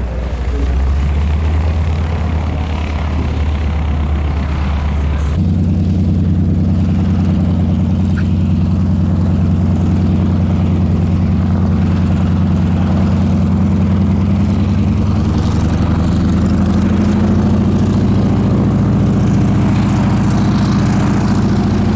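An engine running steadily, rising to a higher, louder setting about five seconds in and holding there.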